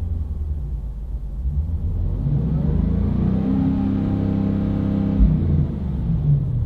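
Land Rover Defender 110's supercharged 5.0-litre V8 exhaust rumbling, its note climbing under throttle a little past two seconds in, holding, then dropping away after about five seconds.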